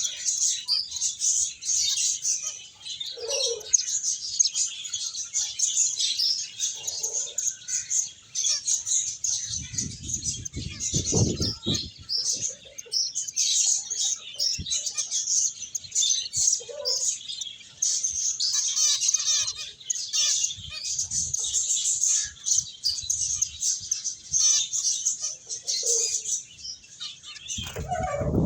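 A flock of pet finches chirping continuously in quick, overlapping high-pitched chirps. A brief low rumble comes about ten seconds in.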